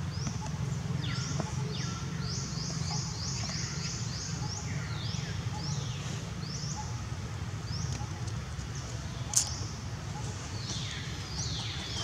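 Birds calling: a string of short whistles sliding downward in pitch, a quick run of about four a second early on, then scattered calls, over a steady low rumble. A single sharp click sounds about nine seconds in.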